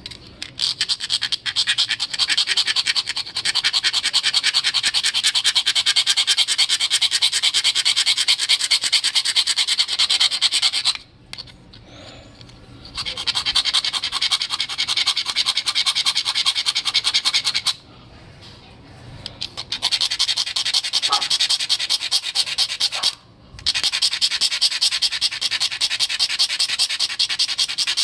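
A magnesium fire-starter block being scraped in rapid, rasping strokes to shave off a pile of magnesium tinder. The scraping comes in four long runs broken by three short pauses.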